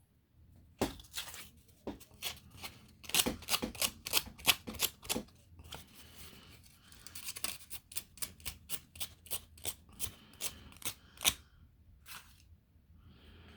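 Hand-finishing of 3D-printed plastic parts: quick, scratchy strokes of a hand tool scraping and smoothing the plastic, in bursts with short pauses.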